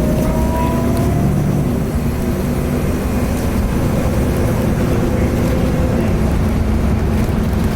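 Cummins ISL diesel engine of a 2010 Nova Bus LFS articulated bus running under way, heard from inside the bus. A thin whine climbs in pitch over the first second or so: the bus's turbo whine.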